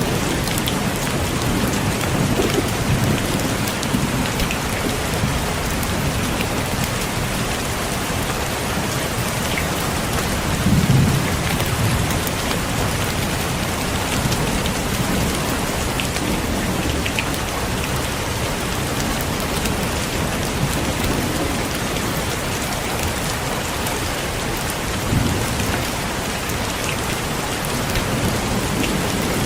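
Heavy, steady rain on a window, with low rolls of thunder three times, the loudest about eleven seconds in.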